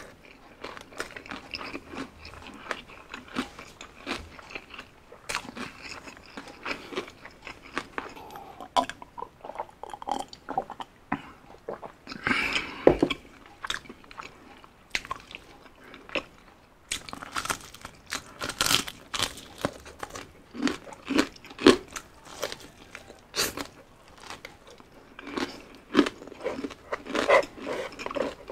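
Close-miked eating of crispy spicy fried chicken: biting into the crunchy breading and chewing, with irregular crunches that get louder and more frequent in the second half.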